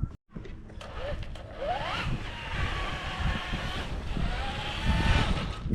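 Wind buffeting the microphone with water noise, after a short cut of silence; two brief rising whistle-like tones sound about two seconds in and again near the end.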